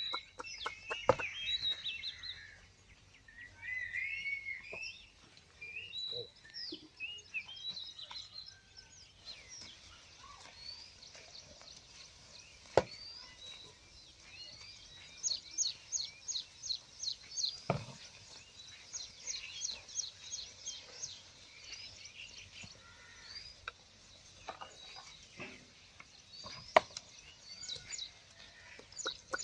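Birds chirping and calling, with quick trills of rapidly repeated high notes through the middle, over a few scattered sharp knocks.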